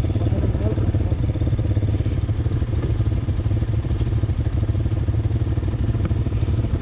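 AKT GP 180 motorcycle engine running steadily, with a rapid, even low pulsing from its exhaust.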